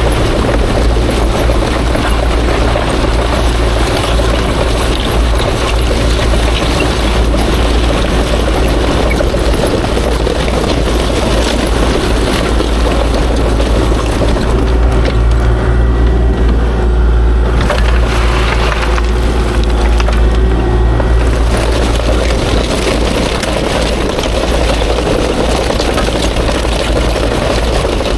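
Kubota KX040-4 mini excavator's diesel engine running loud and steady while it works.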